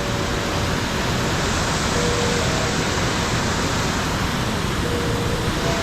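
Waterfall rushing, a steady loud wash of white water.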